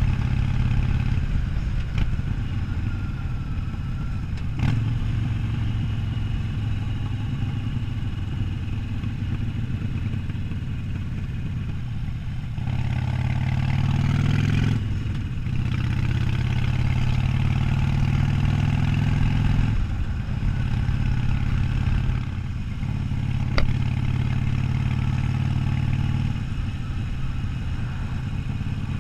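Harley-Davidson Sportster 1200's V-twin engine running as the motorcycle is ridden along, its note stepping up and down several times, with brief dips midway and again later on.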